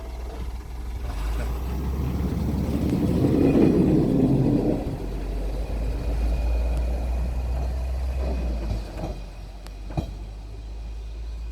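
Engine of a Toyota-built DMV dual-mode road/rail minibus running with a steady low rumble. It grows to its loudest about four seconds in, then eases off over the next few seconds. There is a single sharp click near the end.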